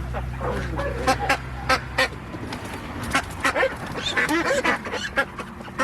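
A flock of domestic ducks quacking, many short, loud calls overlapping in quick succession.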